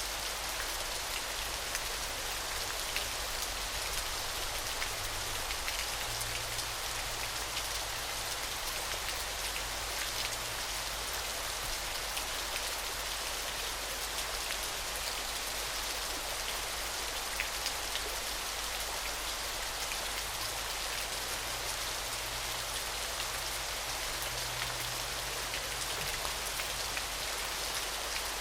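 Falling water: a steady, even hiss of water with many small splashes and droplet ticks running through it.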